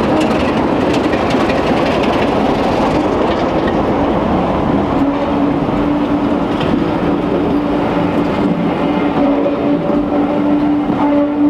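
Passenger coaches rolling past close by on the rails behind a BR Class 33 diesel locomotive, 33063, whose Sulzer engine is already past and receding. About five seconds in, a steady hum comes in under the rolling noise.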